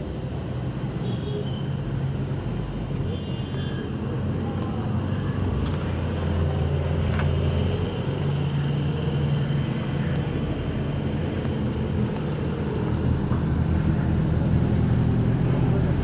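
Street traffic picked up on a phone microphone: vehicle engines running and passing with a steady low hum that grows louder toward the end, and a couple of brief high tones in the first few seconds.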